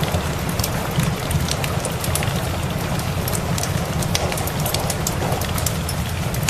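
Steady rain mixed with the scattered sharp snaps of a crackling wood fire, over a continuous low rumble.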